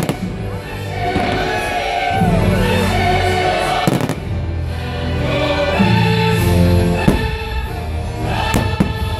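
Choral and orchestral music of a fireworks show soundtrack, with firework shells bursting in sharp bangs about four times: once at the start, about four seconds in, about seven seconds in, and near the end.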